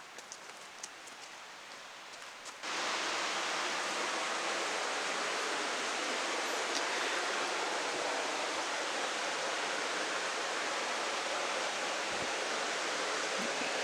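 A river with a strong current rushing steadily, starting abruptly about three seconds in; before that, faint scattered footsteps on the trail.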